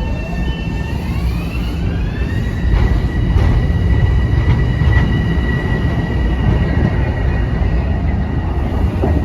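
Metro-North commuter train on the rails with a heavy low rumble. A high electric whine climbs in pitch over about a second and a half, as the train speeds up, then holds steady.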